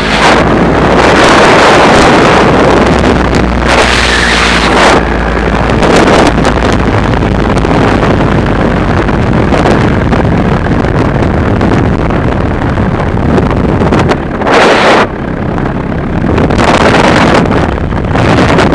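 Heavy wind buffeting the microphone in gusts, with the steady drone of a paramotor engine underneath.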